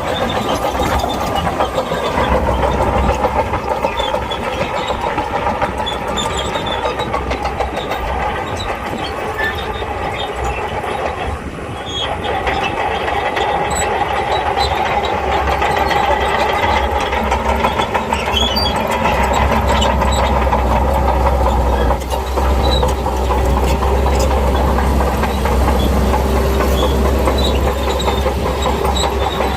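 Shantui crawler bulldozer's diesel engine running hard with steady rumble, together with the clatter of its steel tracks. The sound eases briefly near the middle.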